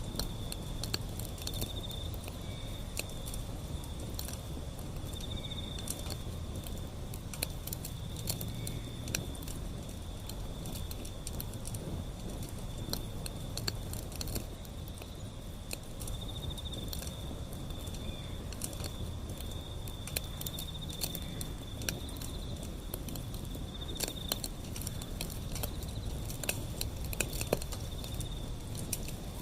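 Wood fire crackling, with frequent sharp pops and snaps over a low rumble of burning. Crickets chirp steadily in the background, a continuous high pulsing trill.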